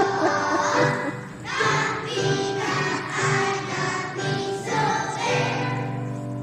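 A group of young children singing together to a musical accompaniment, in phrases with held notes, fading near the end.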